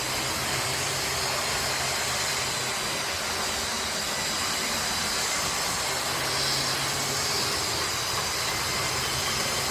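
Model railway diesel locomotive running on the layout: a steady mechanical hum with hiss, unchanging throughout.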